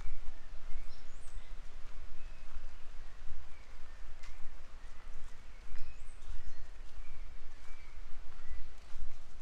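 Birds chirping in short, scattered calls, with a couple of quick rising whistles, over a steady low rumble.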